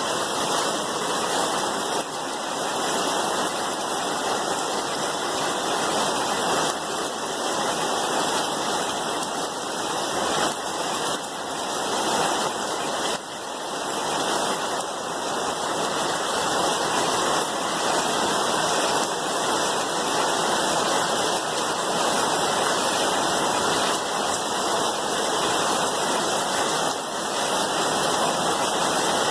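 Steady rain, an even hiss of falling water with no break.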